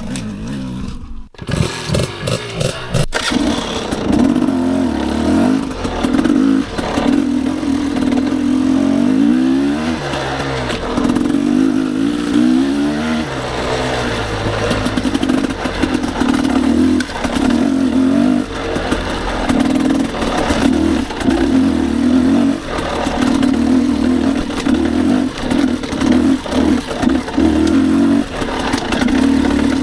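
Dirt bike engine running on the trail, revving up and easing off again and again with the throttle, a few seconds in settling into a steady on-off pulsing.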